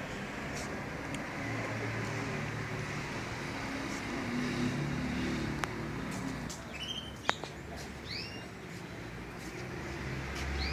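Small birds chirping a few short, rising notes in the second half and again near the end, over a steady low hum of traffic. There is one sharp click about seven seconds in.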